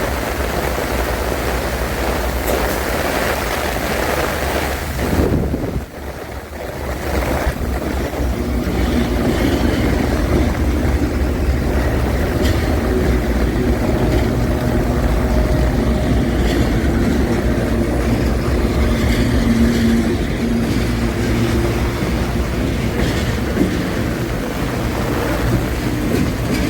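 Freight train with loaded limestone wagons passing, a steady rumble of wheels on rails with several steady low tones under it, mixed with heavy rain and strong wind. The rushing of rain and wind is loudest in the first few seconds, dips briefly, and the train rumble then carries on steadily.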